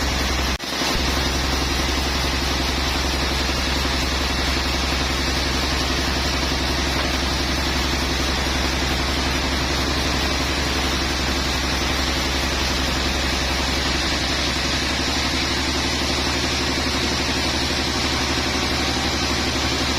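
Sawmill machinery running steadily: a constant low engine hum with an even hiss over it, briefly dropping out just after the start.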